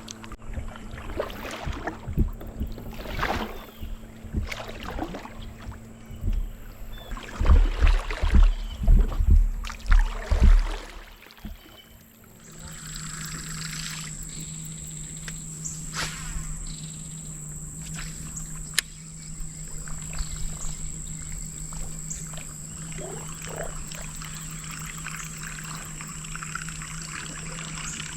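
Water trickling and splashing around a kayak, with irregular knocks and heavy low thumps in the first half. About halfway through, this gives way to a steady low hum with a constant high whine.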